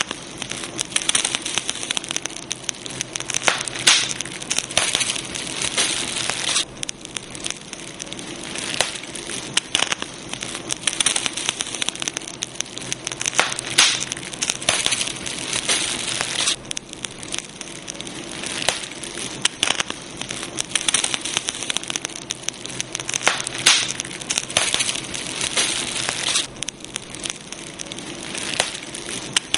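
Campfire burning, with dense crackling and frequent sharp pops of burning wood over a steady hiss.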